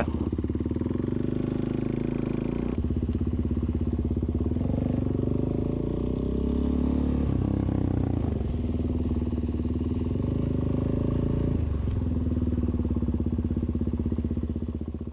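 Suzuki DR-Z400S single-cylinder four-stroke dirt bike engine running under way, its pitch rising and falling several times with the throttle; it fades out near the end.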